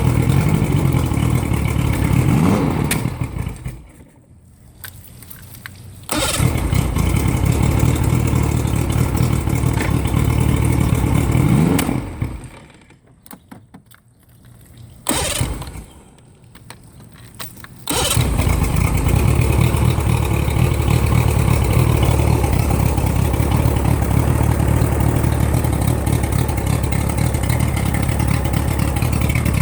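1987 Mariner 75 hp three-cylinder two-stroke outboard running, cutting out about 3 seconds in and restarting a few seconds later, then cutting out again, catching briefly and dying, and finally starting again and running steadily.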